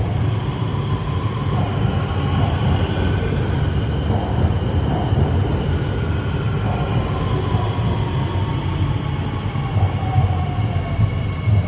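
Shenzhen Metro Line 7 CRRC Changchun Type-A train rolling into the station with a steady heavy rumble. Over the second half its electric motor whine falls slowly in pitch as the train brakes.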